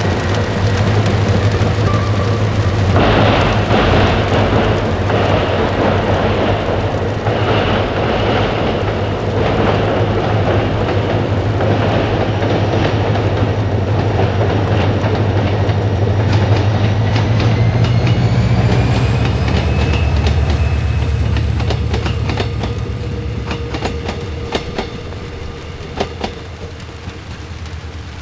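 Diesel-hauled V-Train tourist train running slowly past at about 30 km/h: a steady low engine drone under wheel rumble. A thin high tone rises in pitch about two-thirds through, then rail-joint clicks come through as the train fades away.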